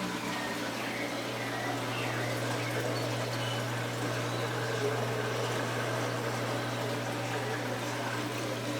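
Aquarium filter running: a steady flow of pouring, trickling water over a constant low pump hum.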